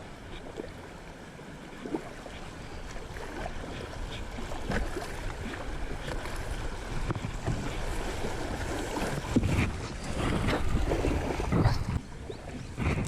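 Water splashing and rushing around a kayak, with scattered scrapes and knocks, some of them a lifejacket rubbing against the GoPro. It grows louder for a few seconds near the end.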